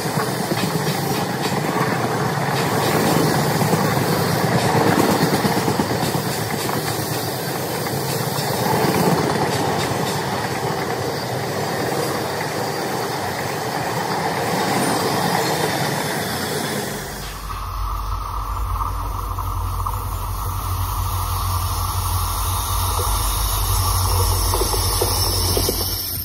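A passenger train passing at speed, a loud continuous rush of wheels on rail with some clatter. About two-thirds of the way through the sound changes abruptly to a lower, steadier rumble.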